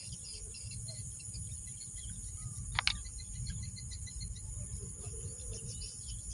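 Birds chirping in short repeated notes over a steady high insect drone, with a low rumble underneath. A single sharp, loud note cuts in just under three seconds in.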